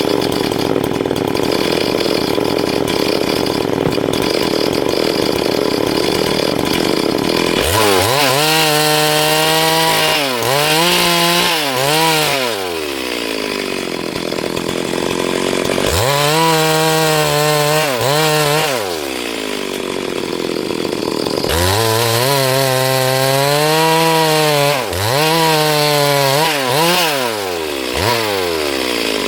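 Chainsaw cutting through a log for about the first seven seconds, then running off the cut. It revs up and down several times, its pitch rising, holding high and falling back toward idle.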